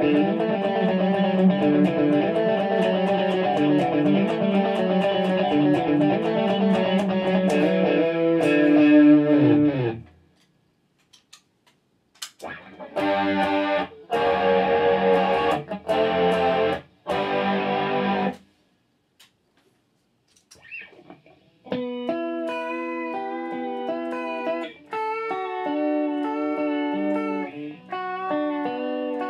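Electric guitar played through a pedalboard of effects: a dense, distorted sustained passage that cuts off about ten seconds in, then four choppy chord blocks with short gaps, and after a pause, cleaner picked notes.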